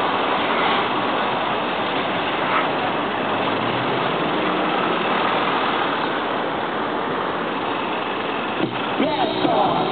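Range Rover Evoque's engine running at low revs as the SUV crawls slowly up and over a steel demonstration ramp, heard within a steady, noisy wash of outdoor sound.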